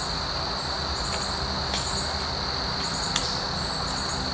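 Insects trilling steadily in a high, unbroken chorus, with short pulsed chirps repeating above the trill. A single sharp click about three seconds in.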